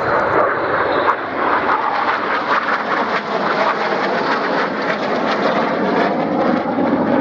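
Red Arrows BAE Hawk jets flying past in formation: a loud, steady rush of jet noise with a fine crackle running through it.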